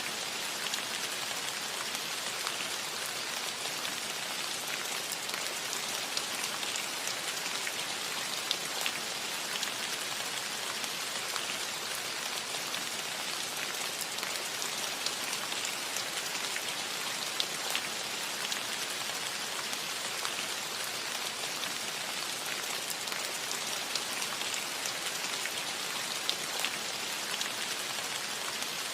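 Steady rain falling on a cottage roof: an even hiss with scattered sharp taps of single drops.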